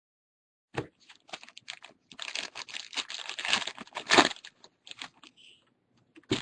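Crinkling and rustling of a foil trading-card pack and its cards being handled, with scattered clicks. The rustle is densest from about two to four seconds in.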